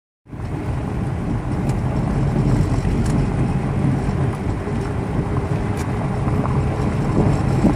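Steady low rumble of a vehicle driving, with no changes in pitch.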